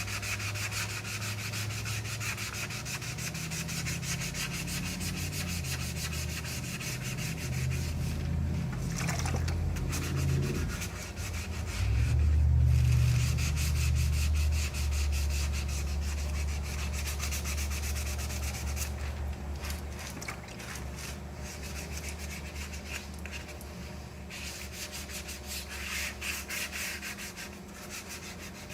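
Hand sanding of primer on a fiberglass repair with soaked 320-grit sandpaper wrapped around a soft pad, in a continuous run of quick back-and-forth rubbing strokes. A low rumble underneath swells about twelve seconds in and is the loudest stretch.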